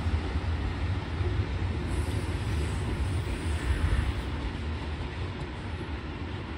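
Shinkansen 500 series train pulling away, a steady low rumble of the train running on the rails that slowly grows quieter as it recedes.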